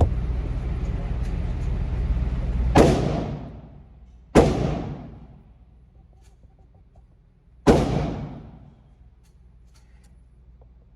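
Three 9mm pistol shots from a Glock 19, fired one at a time with a gap of about a second and a half, then about three seconds, each ringing out briefly after the crack.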